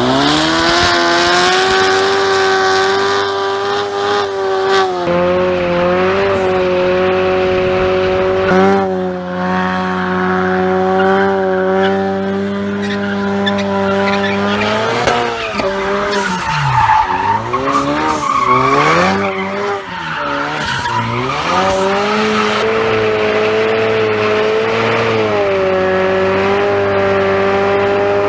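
Turbocharged 2.3-litre four-cylinder EcoBoost Mustang exhaust with muffler delete and catless downpipe, running under way. The revs climb at the start, hold mostly steady with small steps, then drop and rise again several times in the middle before settling.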